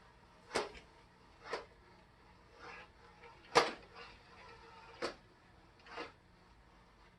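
Yeedi Vac Max robot vacuum bumping into obstacles while it hunts for its base station: a series of sharp knocks, about one a second, the one about halfway through the loudest.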